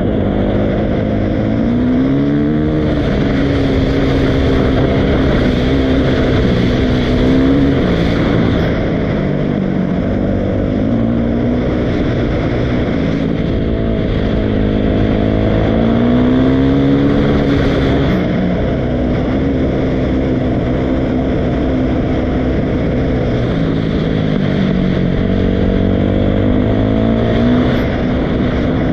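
Dirt bike engine running under load, its pitch rising and falling repeatedly as the throttle opens and closes.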